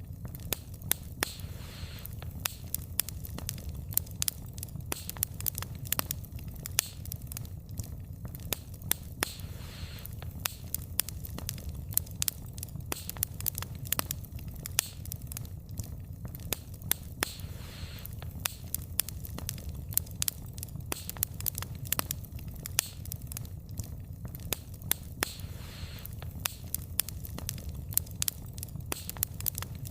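Wood fire burning, with frequent irregular sharp pops and crackles of the burning logs over a steady low rumble of the flames.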